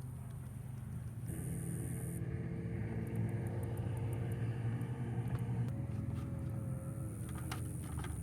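A motor running steadily with a low hum whose pitch shifts a couple of times, and a tone that slides down near the end.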